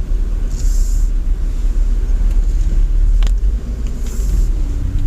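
Car engine and road rumble heard inside the cabin as the car moves slowly, with a single sharp click a little past three seconds in.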